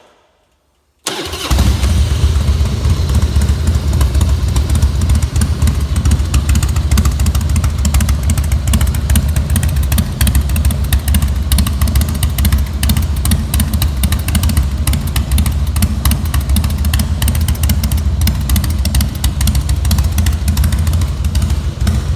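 A 2000 Harley-Davidson Softail Standard's carbureted Twin Cam 88 V-twin, with a stage 1 kit and Screaming Eagle exhaust pipes, starting about a second in and then idling steadily and loudly.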